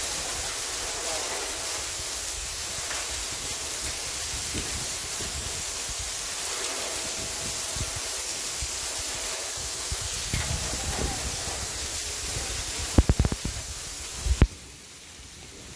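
Heavy rain pouring down in a steady hiss. A few loud knocks come close together near the end, and then the sound drops much quieter.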